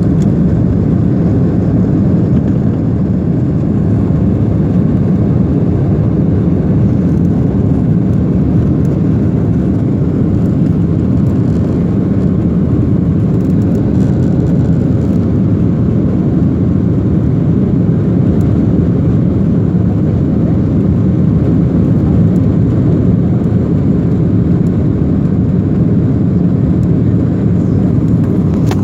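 Airliner engines and airflow making a steady, loud low drone that does not change during the aircraft's climb after take-off.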